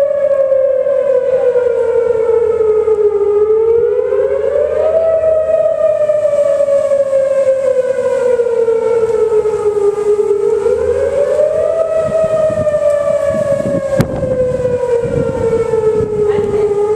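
Outdoor tornado warning siren wailing, its pitch sliding slowly up and down in long cycles of about six seconds.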